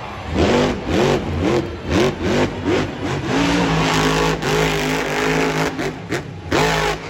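Monster truck engine revving hard in quick blips about twice a second, then held at high revs for a few seconds before dropping off, with one more sharp rev near the end.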